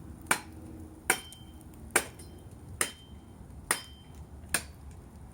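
Repeated blows chopping at a piece of firewood: six sharp strikes in a steady rhythm, about one a second, some leaving a short metallic ring.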